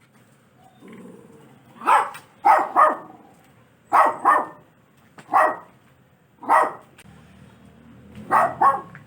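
A dog barking, about nine short barks, some in quick pairs, with pauses between them.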